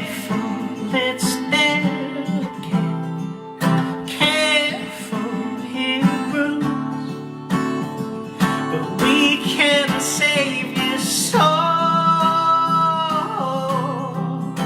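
Music: an acoustic guitar strummed and picked through a song, with a voice singing long, wavering notes over it.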